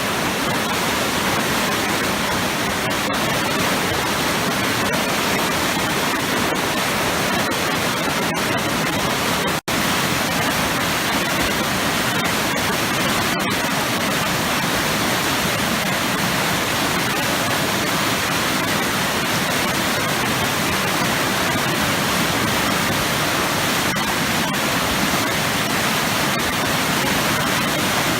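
Waterfall plunging into heavy churning water: a steady, full rushing noise with no let-up, broken once by a momentary dropout about ten seconds in.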